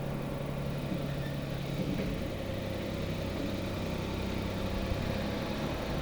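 Truck engine running steadily with an even low hum.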